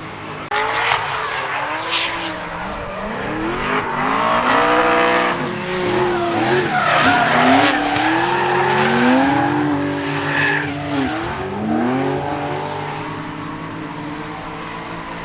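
Drift cars on a track, their engines revving up and down hard while their tyres squeal in long slides.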